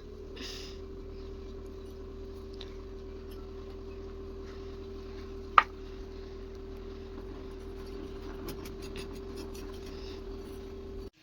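A steady machine hum, with one sharp click a little past halfway and a few faint ticks later on; the hum cuts off suddenly near the end.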